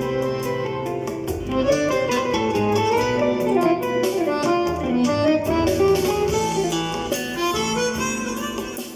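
Accordion with a MIDI system playing a tune: a moving melody over held chords and a bass line.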